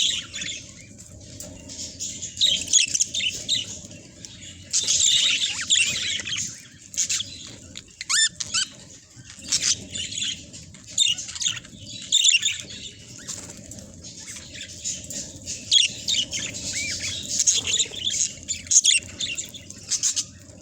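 A flock of budgerigars chattering: many overlapping chirps, warbles and short squawks, continuous, over a steady low background hum.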